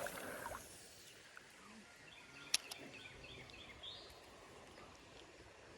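Quiet riverside ambience with faint bird chirps, a few short calls in the middle, and one sharp click about two and a half seconds in.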